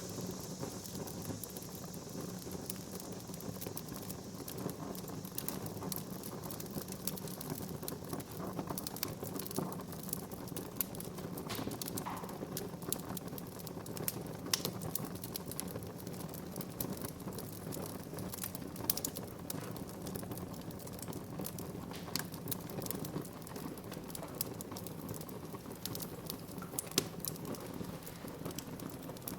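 Wood fire crackling in a fireplace: a steady low rustle of burning with irregular sharp pops and snaps scattered through it, a few louder than the rest.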